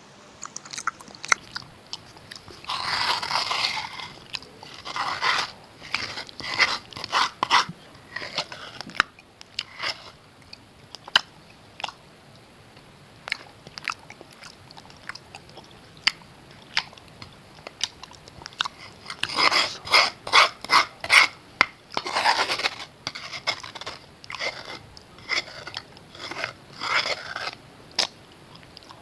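A person biting and chewing slate pencils close to the microphone: crackly crunches in two dense runs, about three seconds in and again near the twenty-second mark, with scattered single crunches between.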